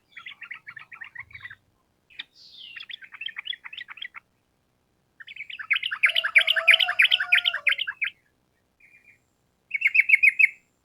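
Yellow-vented bulbul (trucukan) singing: a string of short bursts of fast chattering notes, about five phrases, with the loudest and longest one, nearly three seconds, in the middle.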